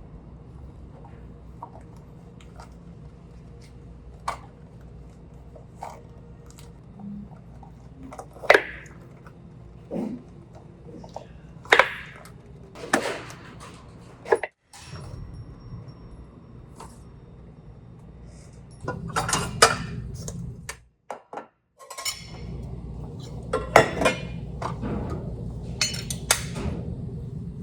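Dishes and utensils being handled in a cafe kitchen: a series of separate sharp clinks and knocks over a low steady background, busier and louder in the last third.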